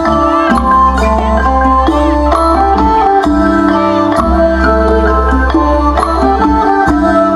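Traditional northeastern Thai music for a fon dance: a melody of struck, mallet-like notes over a steady low drone, with light percussion.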